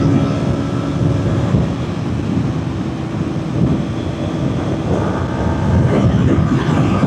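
Kawasaki Ninja 400 parallel-twin engine running hard at high revs at highway speed, with heavy wind rush over the microphone. It eases slightly in the middle and grows louder again after about five seconds.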